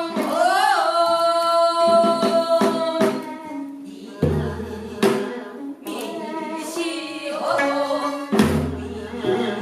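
Pansori music with Korean traditional accompaniment: long held, wavering melodic notes from singing and instruments, with two deep buk drum strokes about four seconds apart.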